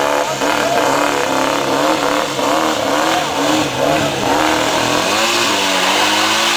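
Turbocharged car engine revving up and down repeatedly in quick blips, settling into a steadier tone near the end.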